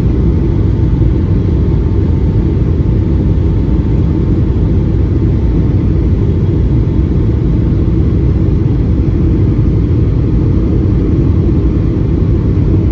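Steady cabin noise inside a Boeing 757-200 airliner in flight: a loud, even rumble of engine and airflow noise, with a faint steady high tone running through it.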